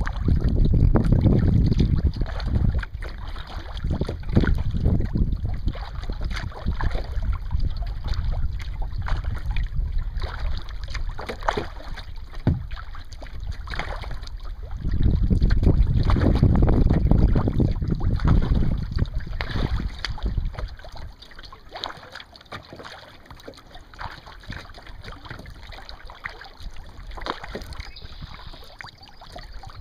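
Wind buffeting the microphone in gusts, heaviest at the start and again around the middle, then easing off in the last third. Small water splashes and knocks from a kayak on the water run through it.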